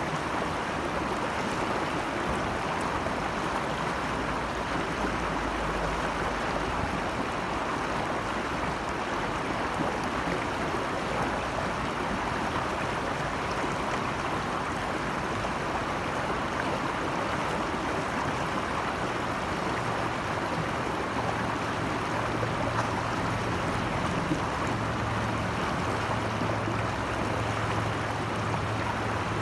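Flowing water rushing steadily, an even, unbroken wash of stream noise.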